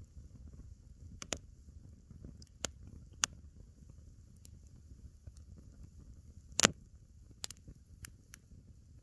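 Wood fire crackling: scattered sharp pops, about seven, the loudest about two-thirds of the way through, over a low steady rumble.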